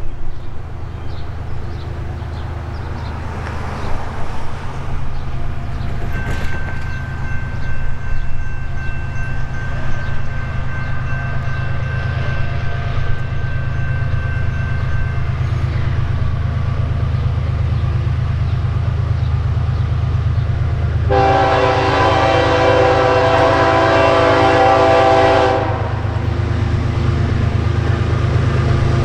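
BNSF GE ES44DC diesel locomotive with its V12 GEVO engine running, a steady low rumble, as it approaches leading a freight train. About three-quarters of the way through it sounds its multi-chime air horn in one long blast of about four seconds, and a second blast begins at the very end.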